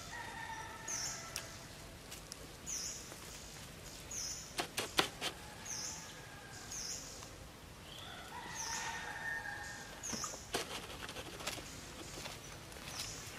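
A bird's short, high, falling chirp repeated over and over, roughly once a second, over outdoor ambience, with two longer, steadier, lower calls near the start and about two-thirds of the way through, and a few sharp clicks.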